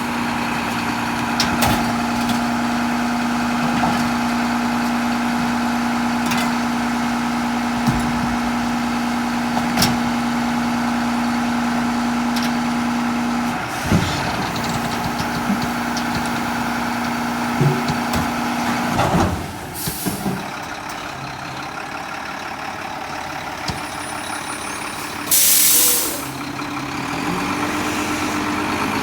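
Mack front-loader garbage truck with a Heil body running at work, a steady whine over the engine with occasional knocks and clanks; about two-thirds of the way through the whine stops and the truck settles to a lower, quieter run. Two sharp bursts of air-brake hiss follow, the second, near the end, the loudest.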